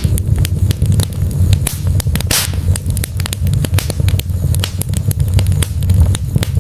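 Wood fire burning in a fireplace: dense, irregular crackles and pops from the burning logs over a steady low rumble of the flames, with a brief hiss about two and a half seconds in.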